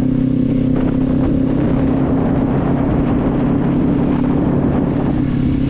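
Motorcycle engine running at a steady, unchanging pitch while riding at constant speed, with a rush of wind and road noise over it.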